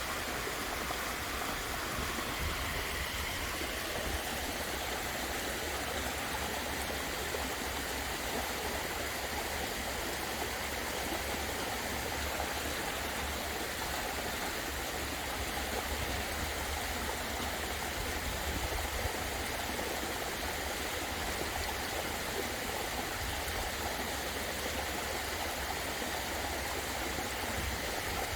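Waterfall pouring steadily: a constant rush of falling water with a low rumble beneath it.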